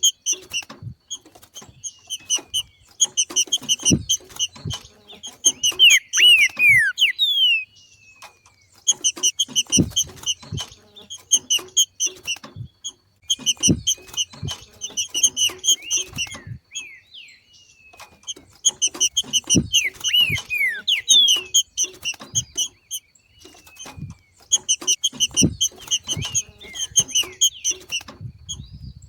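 Green-winged saltator (trinca-ferro) giving its macheado: fast trains of sharp, rapidly repeated notes in bouts of a few seconds separated by short pauses, with a few downslurred notes mixed in. Soft low thumps come at the start of several bouts.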